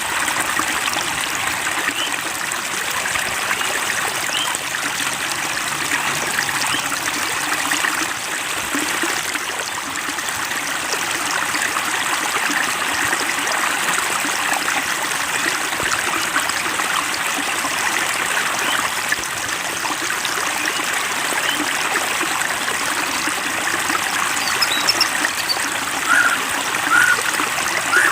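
Water trickling and babbling steadily, like a small stream, with a few short brighter blips near the end.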